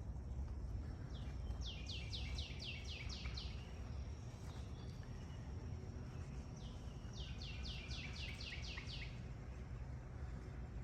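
A songbird singing two phrases, each a quick run of about eight to ten down-slurred whistled notes, the second phrase starting about six seconds in. Under it runs a steady low rumble.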